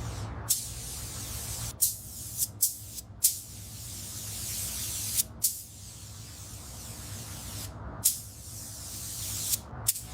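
Pressurised spray hissing in four long bursts, each starting and cutting off sharply, with sharp clicks where it stops and starts.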